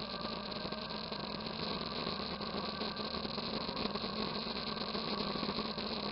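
Motorcycle engine running steadily, a continuous drone with even noise and no breaks.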